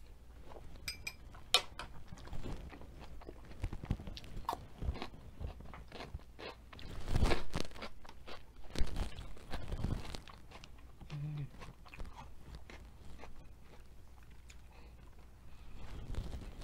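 Close-miked chewing of a mouthful of sautéed spinach and mushrooms, with small wet mouth clicks and crunching that grows louder around the middle. A light clink sounds about a second in.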